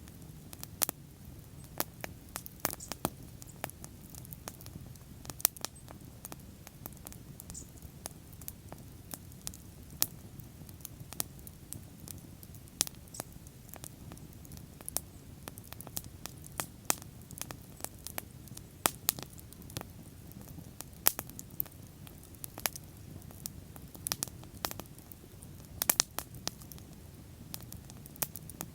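Wood bonfire burning: irregular sharp crackles and pops, several a second, over a low steady rumble of the flames.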